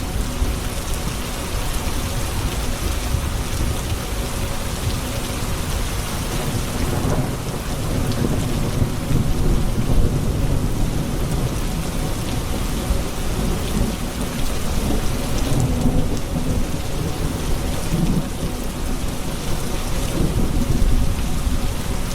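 Steady heavy rain with rolling thunder rumbling low underneath, swelling and fading.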